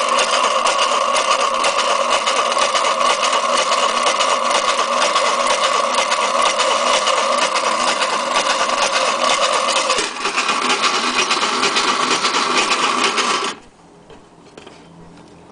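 Vintage Mary Lou toy washing machine running with a steady mechanical whir and rattle. The sound shifts about ten seconds in and cuts off suddenly a few seconds later.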